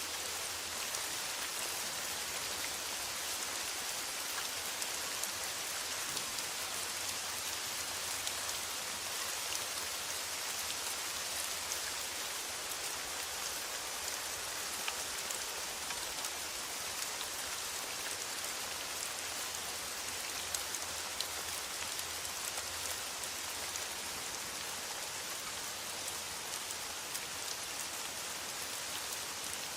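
Steady rain falling on a metal roof: an even hiss sprinkled with many small, sharp drop ticks.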